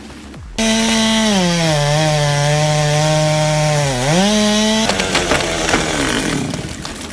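Chainsaw engine starting to run about half a second in, its pitch dropping as it loads up in a cut. It dips lower near four seconds, rises again and cuts off, followed by a rougher, noisy sound.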